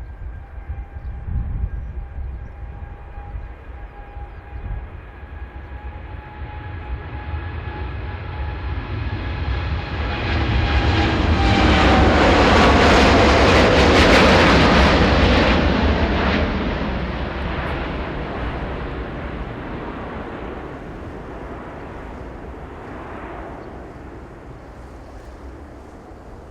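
Jet airliner passing on approach to land: its engine whine falls slowly in pitch as the noise swells to a peak about halfway through, then fades away. Strong wind buffets the microphone throughout.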